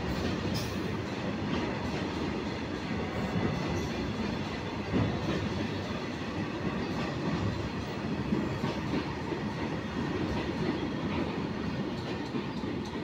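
Indian Railways freight train of hopper wagons rolling past close by: a steady rumble of steel wheels on the rails with scattered clacks as the wheels cross the rail joints.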